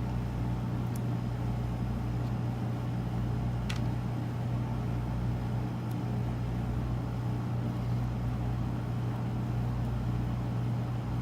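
Steady low background hum, like a fan or other running machine, with a faint tick about four seconds in.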